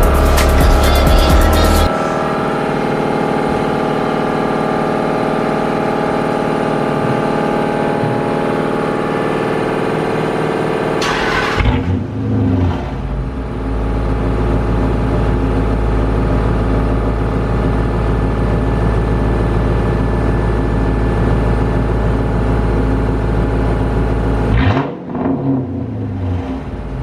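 Chrysler 300's Hemi V8 running through straight pipes, mufflers and resonator deleted, idling steadily and loud with a strong low rumble. A brief rev surges about eleven seconds in, and the note shifts again near the end. Music fades out in the first two seconds.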